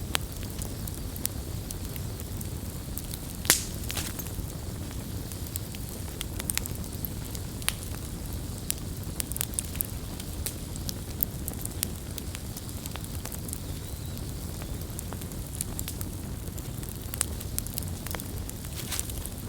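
Wood campfire burning with a steady low rumble and frequent sharp crackles and pops, the loudest pop about three and a half seconds in.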